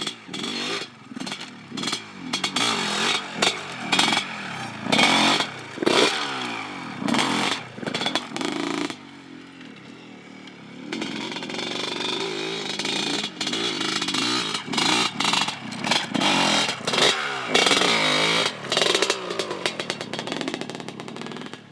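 Motocross bike engines revving hard, rising and falling in pitch as the throttle opens and closes. There are many abrupt jumps in loudness and a quieter stretch about halfway through.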